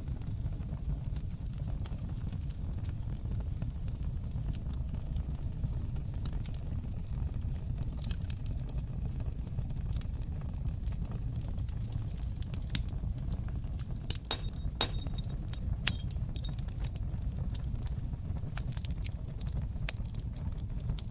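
Open fire in a stone fireplace crackling, with scattered sharp pops over a steady low rumble of flames. A cluster of pops comes about two-thirds of the way in, and the loudest single pop follows shortly after.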